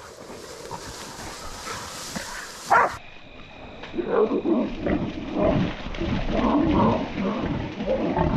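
Feral boar squealing and grunting in repeated harsh cries, held by dogs; the cries start about four seconds in, after a stretch of rustling.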